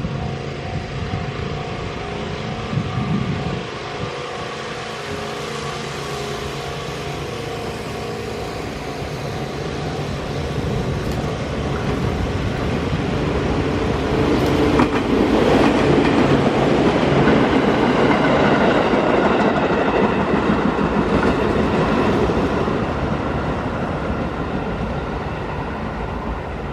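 Chichibu Railway 6000 series electric train passing through a station without stopping. Its wheel and running noise builds to its loudest about halfway through, with a few sharp clicks, then eases off.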